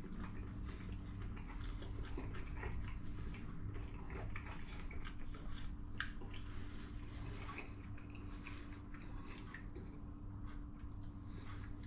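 A man chewing a mouthful of doner kebab meat with salad in bread, with soft, irregular wet mouth clicks, over a steady low hum.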